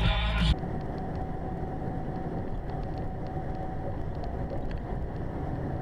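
Steady hum of a car driving on the road, heard from inside the vehicle; music cuts off abruptly about half a second in.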